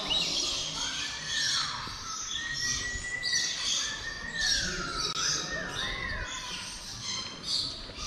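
A mix of birds chirping and squawking over one another, with clear whistled calls that glide down in pitch and a run of three quick rise-and-fall whistles about five to six seconds in.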